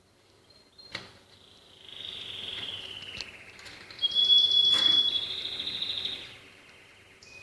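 A small songbird singing high, trilled phrases: a falling trill, then a louder, steadier one, with a sharp click about a second in and another in the middle.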